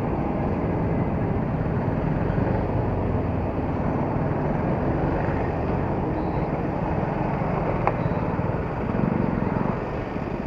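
Yamaha R15 motorcycle on the move: its engine running steadily under a thick rush of wind and road noise, with one short tick about eight seconds in.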